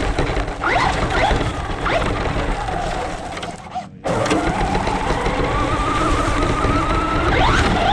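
Radio-controlled truck's motor whining as it is revved up and down, the pitch sweeping up and falling back repeatedly, with a steadier held whine in the second half. The sound drops away briefly about four seconds in.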